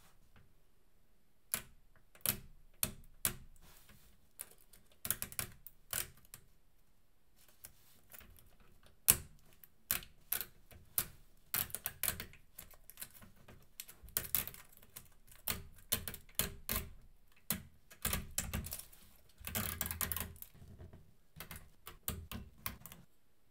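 Plastic LEGO Technic pieces clicking and snapping together by hand, in irregular sharp clicks with short pauses between, turning into a denser rattling clatter near the end.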